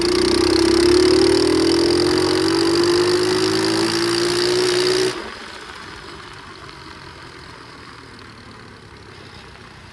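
Flywing pit bike engine held under throttle, its pitch climbing slowly and sluggishly, then dropping off sharply about five seconds in to a much quieter running note. The rider blames its lack of throttle response on water drawn into the carburetor, which has no air filter.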